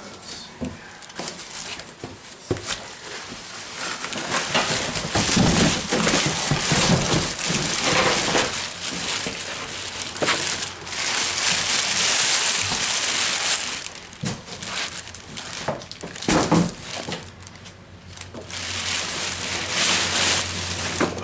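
Packaging being handled and pulled apart: crinkling, crunching wrapping with scattered knocks, swelling louder for long stretches.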